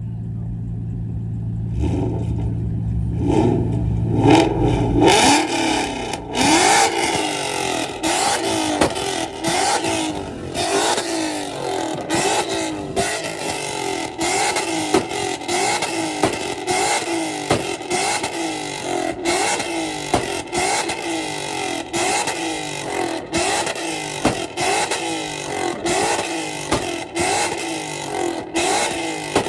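A car engine idles for a few seconds, then is revved hard over and over, its pitch climbing and falling about once a second with sudden sharp cut-outs between revs.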